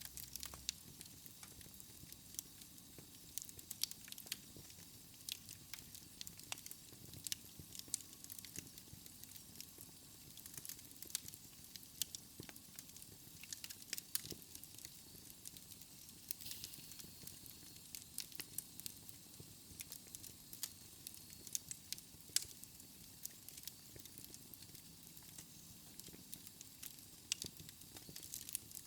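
Logs burning in a wood fireplace, crackling with many sharp, irregular pops and snaps over a soft hiss.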